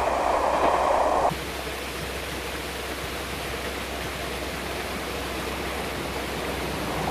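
An electric train running, its sound cutting off abruptly about a second in, followed by a steady, even hiss of background noise.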